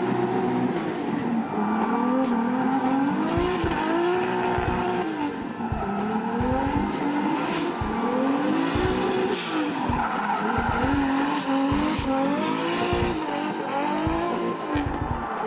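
Drift car engine revving up and falling back again and again, every second or two, with tyres squealing as the car slides.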